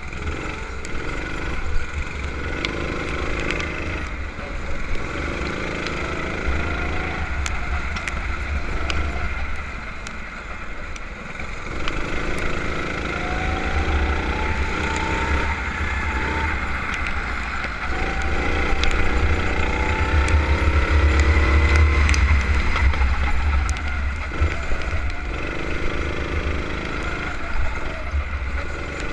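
Go-kart engine revving up and down again and again, its pitch climbing on each acceleration and dropping off every few seconds, over a heavy low rumble.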